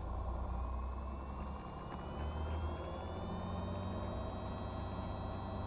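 Cessna 182's engine heard through the cockpit intercom, a steady low drone with a faint whine that rises in pitch over the first few seconds and then holds as power comes up for the takeoff roll.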